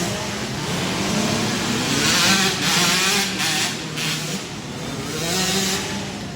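Several 65cc two-stroke dirt bikes racing, their engines revving up and down with the throttle, with pitches overlapping and swelling in and out.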